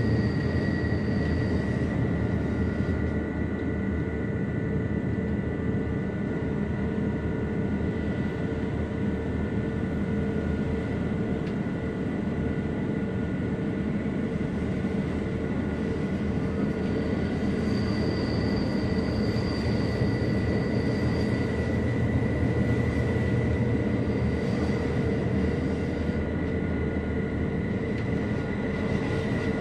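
Electric metre-gauge Rhaetian Railway train on the Bernina line running steadily, heard from inside the passenger coach: a continuous rumble of wheels on rails under a few steady whining tones. A faint high thin tone comes in twice, near the start and again about two-thirds of the way through.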